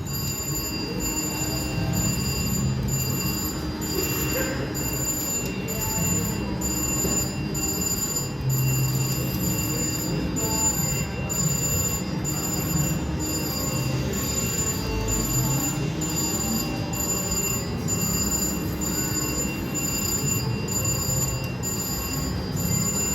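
Video slot machine playing its electronic game sounds while it spins: steady high tones pulsing in an even rhythm a little under twice a second, over a low din of casino background noise.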